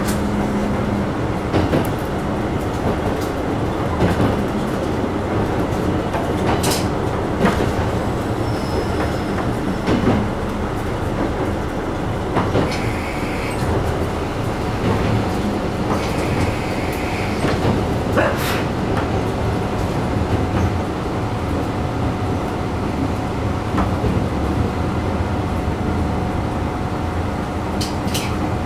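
A diesel railcar running along the line, heard from inside the car: a steady engine and rolling noise with occasional sharp clacks of the wheels over rail joints.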